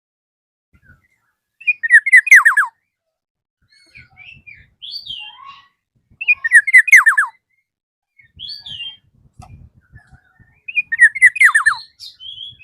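Black-naped oriole calling to challenge a rival. It gives three loud phrases about four and a half seconds apart, each a quick run of falling notes, with softer scattered notes in between.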